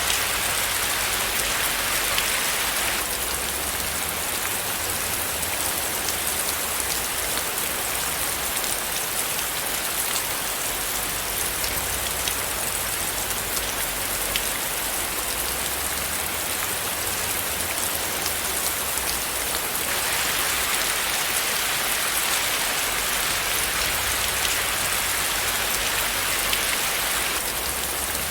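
Steady rain falling, a dense, even hiss of countless drops landing on a surface, with fine individual drop ticks throughout and no thunder.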